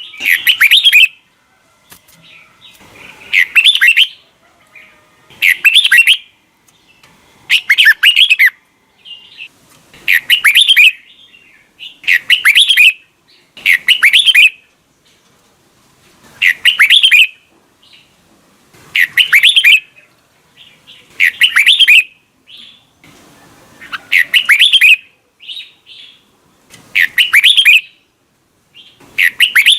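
Red-whiskered bulbul singing loud, short, warbling song phrases, one roughly every two seconds.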